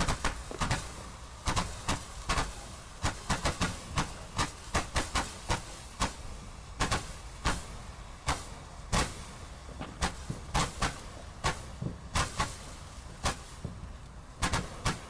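Consumer firework going off: a rapid, irregular run of sharp bangs and cracks, about two to four a second, continuing throughout.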